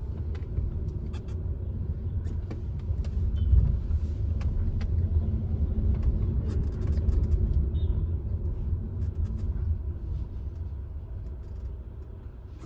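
Steady low road and tyre rumble inside the cabin of a moving MG electric car, with no engine note and a few faint clicks; it eases off slightly near the end.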